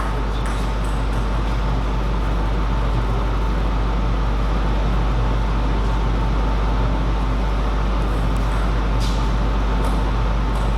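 Steady low rumble and hiss of background noise with a faint steady hum, no ball strokes; one faint tap about nine seconds in.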